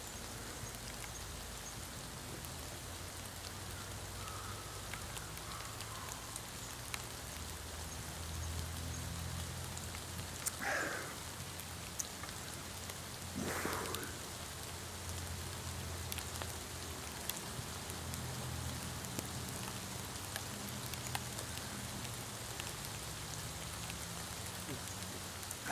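Steady rain falling on tree leaves. Twice, about eleven and thirteen and a half seconds in, a short vocal sound from the man drinking cuts through, and a low hum sits underneath for much of the middle.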